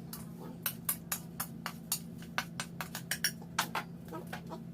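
Irregular sharp clinks and taps of a utensil against a bowl while apple slices are dipped in sugar and cinnamon, over a steady low hum.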